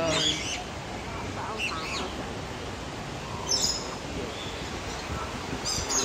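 Birds chirping, short high chirps coming in scattered clusters every second or two.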